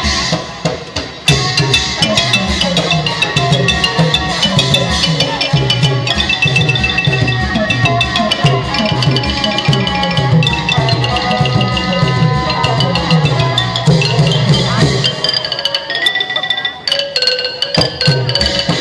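Thai traditional ensemble music accompanying likay: pitched wooden xylophone (ranat) lines over a steady beat of drums and wooden percussion. The drums drop out briefly about sixteen seconds in, then resume.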